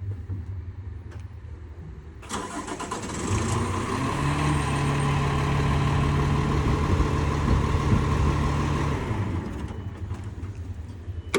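Paccar PX9 diesel engine of a Peterbilt 337 starting up: a sudden onset about two seconds in, building over a couple of seconds into a steady run, then easing off near the end.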